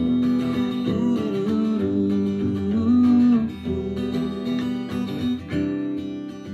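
Guitar through a Traynor TVM15 amp playing an instrumental passage between sung lines: strummed chords under sustained melody notes that bend and waver in pitch.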